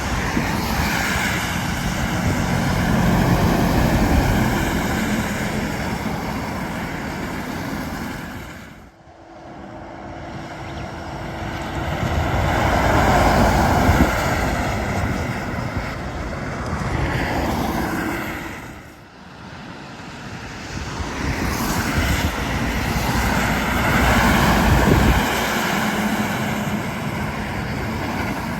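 Heavy trucks driving past on a highway, three in succession, each approaching, passing loudly and fading away. Diesel engine hum under broad tyre noise.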